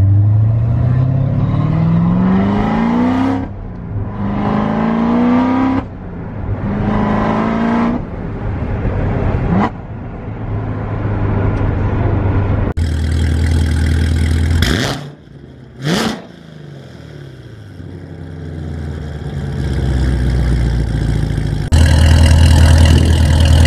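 C7 Corvette Z06's supercharged 6.2 L V8 breathing through Kooks headers, heard from inside the cabin on a full-throttle pull: the revs climb and drop through three quick upshifts, then settle to a steady cruise. Later come two sharp revs, rising and falling, and then a loud steady engine rumble.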